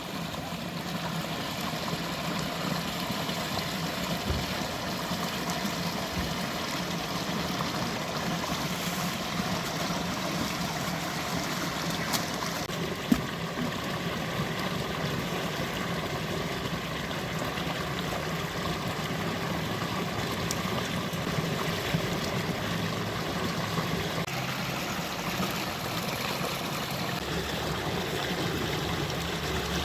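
A stream flowing and trickling steadily, with a single short knock about halfway through.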